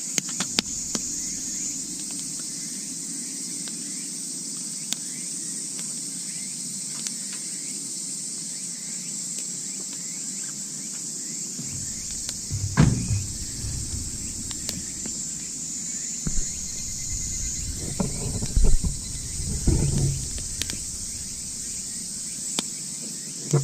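Night insects trill steadily while a wood campfire crackles with scattered sharp pops. From about halfway on, irregular low thumps and rumbles come and go.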